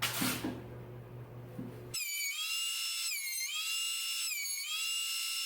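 After about two seconds of faint handling noise, a power tool's motor starts a high whine. Its pitch sags and recovers about four times as it bites into the wood.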